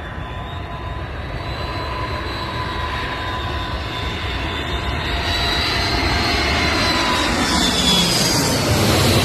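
Jet airliner engines running, a steady whine over a rumble; about halfway through the whine shifts in pitch and the noise grows louder toward the end.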